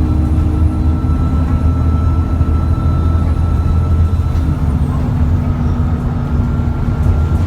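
Cummins ISBe 6.7-litre diesel engine of an ADL Enviro400 double-decker bus running under way: a steady low rumble with a thin, steady turbocharger whine above it, the engine note dropping slightly about halfway through.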